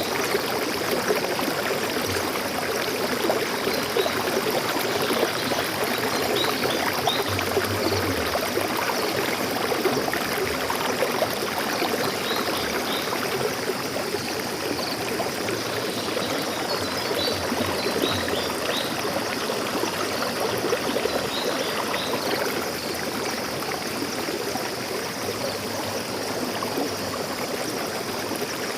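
Forest stream flowing steadily, with brief high bird chirps now and then.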